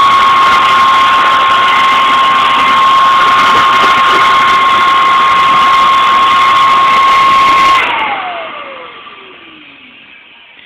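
Vacuum cleaner motor running at speed with a steady high whine. About eight seconds in it is switched off, and the whine falls steadily in pitch as the motor spins down.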